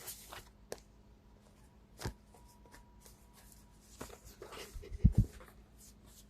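Tarot cards being handled and shuffled: scattered soft rustles and taps, with a couple of sharper knocks about five seconds in.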